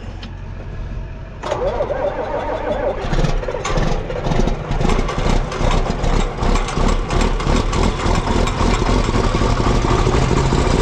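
A large farm diesel engine starts about a second and a half in, then runs with a rapid, dense pulsing. It is a cold start, the machine having sat out in the cold.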